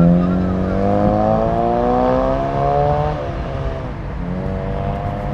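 Car engine and exhaust accelerating hard: the pitch climbs for about three seconds, falls suddenly at a gear change, then climbs again as it pulls through the next gear.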